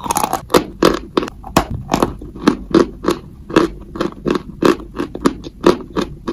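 Close-miked biting and chewing of a dry, crumbly white chalky block. There is a bite at the start, then crisp, regular crunches about four a second.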